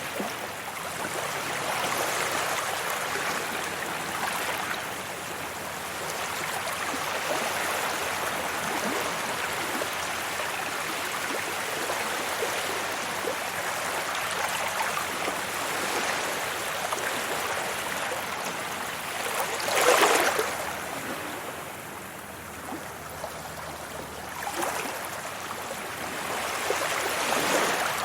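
Sea waves washing onto a beach in a steady rush of surf that swells and fades, with one louder wave breaking about twenty seconds in and smaller surges near the end.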